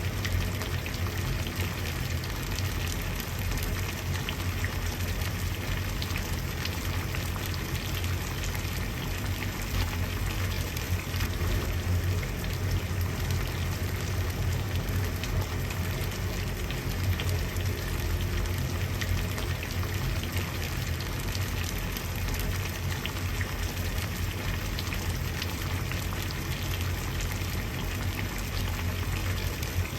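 Water boiling: a steady, dense bubbling with many small pops over a low rumble.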